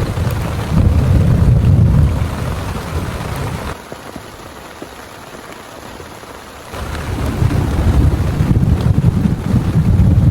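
Heavy rain falling steadily, with a loud low rumble of thunder over it for the first few seconds. The rumble drops away suddenly to plain rain, then comes back loud about seven seconds in.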